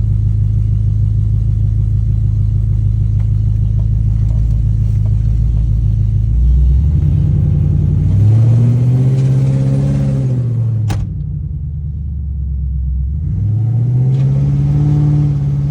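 Ford Crown Victoria's V8 running steadily, then accelerating and easing off twice, its pitch rising and falling each time. A single sharp click comes between the two pulls, just after the middle.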